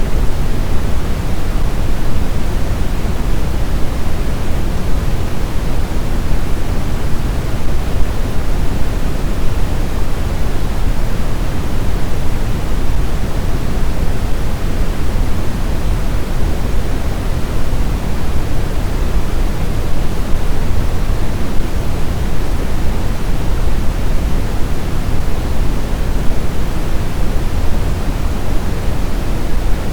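Steady, deep rushing noise presented as blizzard wind, holding an even level without distinct gusts.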